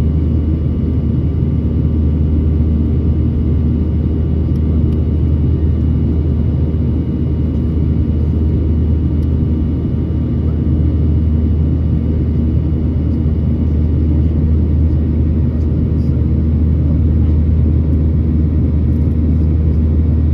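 Boeing 737-800 cabin noise during the climb after takeoff: its CFM56-7B engines and the airflow make a steady low drone, with a faint steady whine above it.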